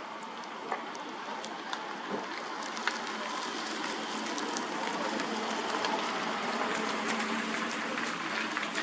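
Large bonfire burning: a steady hiss with scattered sharp crackles and pops, getting slightly louder.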